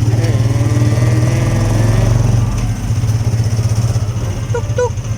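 Motorcycle engine of a Philippine tricycle (a motorcycle with a passenger sidecar) running steadily under way, a loud low drone with a quick even pulse.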